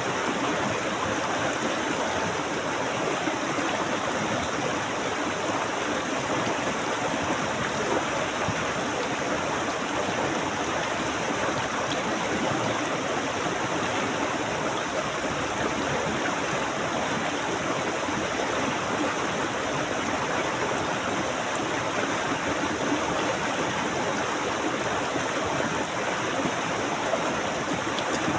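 A stream of water flowing steadily over rocks, a continuous even rush and babble.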